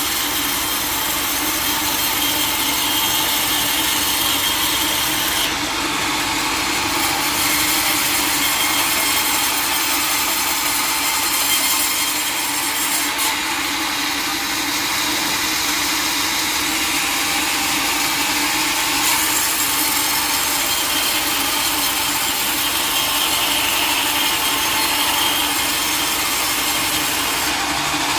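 A sawmill saw running steadily through teak wood: a continuous cutting noise over a steady hum.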